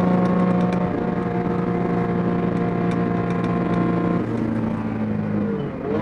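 1967 Porsche 911S race car's air-cooled flat-six heard from inside the cockpit, running at steady revs on track. The note drops about four seconds in and wavers near the end.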